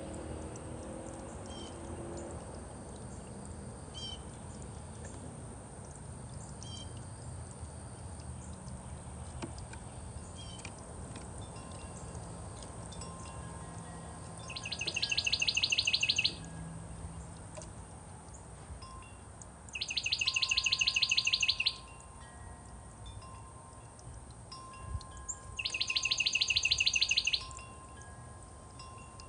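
A songbird singing a fast, high trill about two seconds long, three times roughly five seconds apart, with scattered short chirps between. Faint, drawn-out wind chime tones ring underneath.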